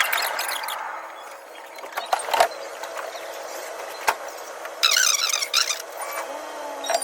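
Tokyu 5050 series electric train running, heard from the cab: a steady low hum, a few sharp clicks of the wheels over rail joints, and a brief high-pitched squeal about five seconds in.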